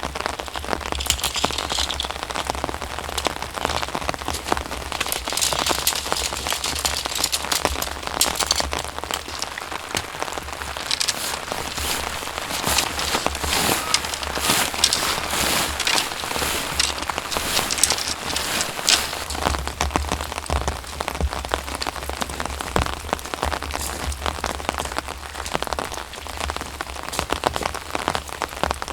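Steady rain, with many individual drops striking close by.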